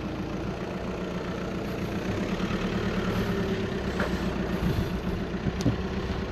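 Car engine running at low speed as the car is slowly manoeuvred out of a tight parking space.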